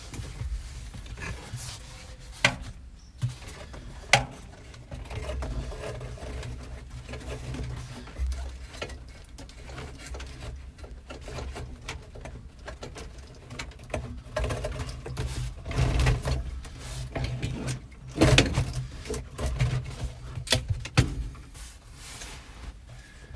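A flexible HVAC vent hose being pushed and worked into a tight space behind a truck dashboard: irregular rustling and scraping with scattered sharp knocks and clicks, several of them loud.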